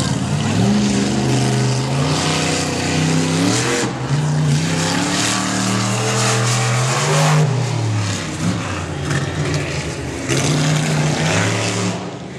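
Bigfoot monster truck engine revving hard. Its pitch climbs and falls again and again as the throttle is worked, with brief lulls about 4 and 8 seconds in.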